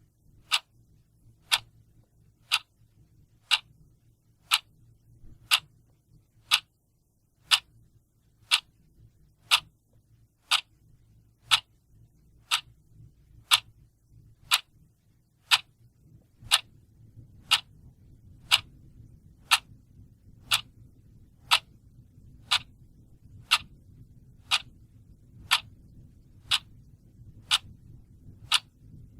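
Clock ticking steadily, one sharp tick about every second, over a faint low background hum that grows slightly louder about halfway through.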